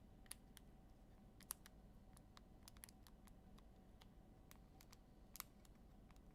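Faint, scattered clicks and ticks of trading cards being handled and flipped through, over near-silent room tone, with two slightly louder clicks about a second and a half in and near the end.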